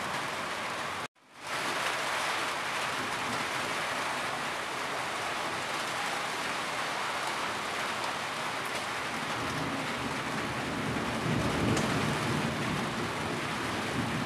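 Steady rain on a corrugated tin roof, an even patter. The sound cuts out for a moment about a second in and fades back up, and a low rumble swells briefly near the end.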